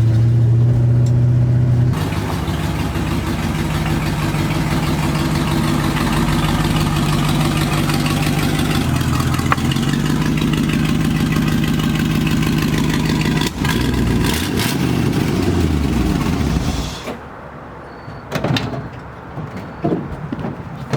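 A 1973 Dodge D100's 318 V8 running while the truck is driven, its steady note mixed with road and wind noise. The engine pitch shifts and falls in the second half as the truck slows. Near the end the engine sound stops abruptly, leaving a few knocks.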